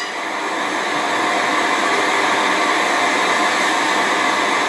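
Steady rushing noise, even and unbroken, with no beat or pitch.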